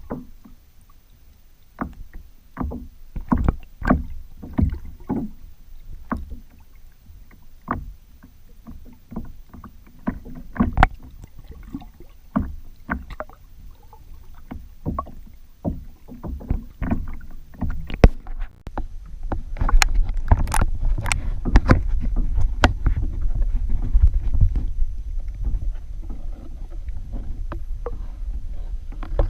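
Kayak under way: irregular knocks and bumps of paddle and hull, then, about two-thirds of the way through, a louder steady low rumble of water with ticks in it.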